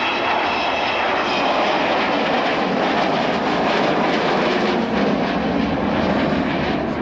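Avro Vulcan B2 bomber flying past with its four Rolls-Royce Olympus turbojets running, a loud, steady jet roar that deepens toward the end.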